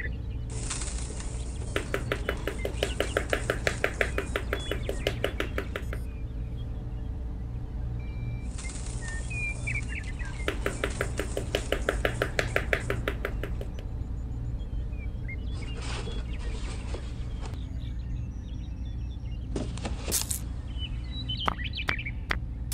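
Birdsong ambience over a steady low hum: short bird chirps, and twice a few seconds of rapid, even clicking, about ten clicks a second.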